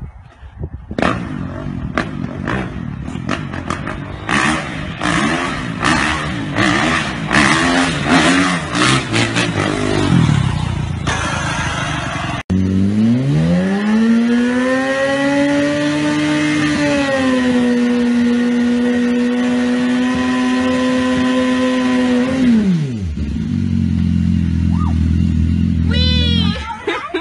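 Motorcycle engines. First a rough, uneven engine run with many sharp clatters. Then, after a cut, one engine revs up over a few seconds, holds high revs steadily for about six seconds, and drops back to a low idle near the end.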